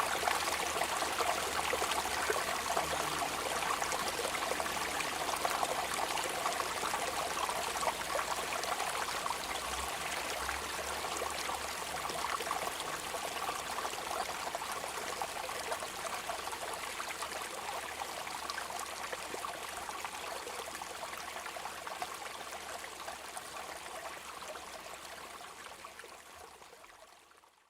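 Steady rain with running, trickling water, a dense even hiss that fades out over the last few seconds.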